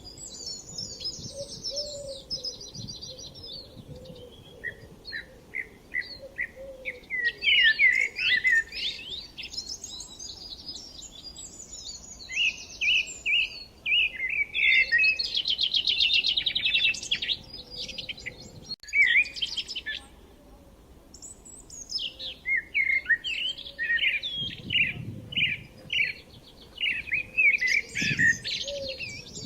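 Small songbirds chirping and trilling in quick, busy phrases, with a brief break a little past the middle.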